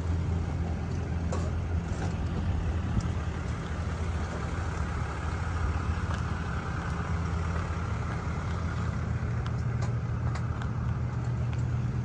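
Vehicle engine idling: a steady low hum over a faint even background noise.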